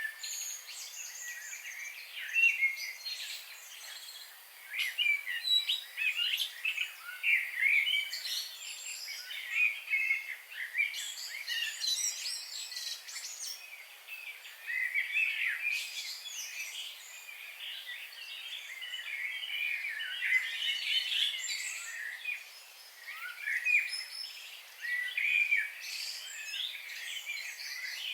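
Several birds singing and calling at once: a dense, busy chorus of short high chirps and trills that overlap without a break, over a faint steady hiss.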